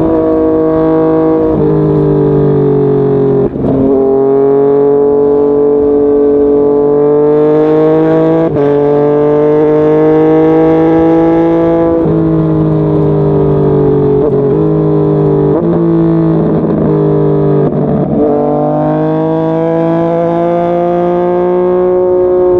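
Yamaha MT-09's 847 cc inline-three engine under way. Its pitch climbs steadily and then drops sharply at each gear change, several times over.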